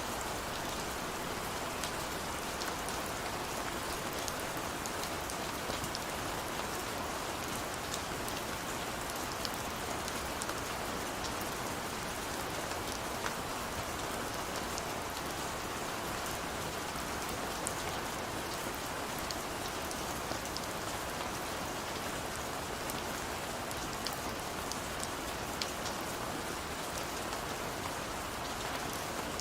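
Steady rain falling, with a constant hiss and scattered individual drop ticks.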